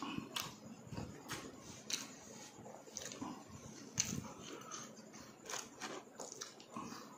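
Close-miked chewing of crispy deep-fried pork mesentery (chicharon bulaklak): irregular sharp crunches as it is bitten and chewed, the loudest about four seconds in.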